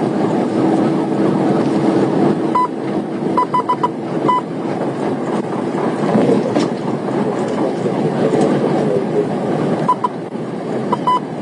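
Steady road and wind noise inside a patrol car driving at about 100 mph in pursuit. Short high beeps sound several times, in a cluster between about two and a half and four and a half seconds in and again near the end.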